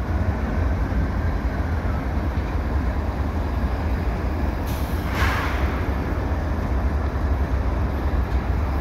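Slow-moving CN freight train with GE ES44AC diesel locomotives, a steady low rumble of engines and rolling cars, with a brief hiss about five seconds in.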